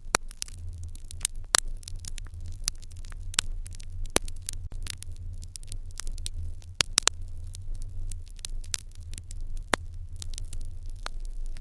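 Fire in an irori hearth crackling, with sharp, irregular pops several times a second over a low steady hum.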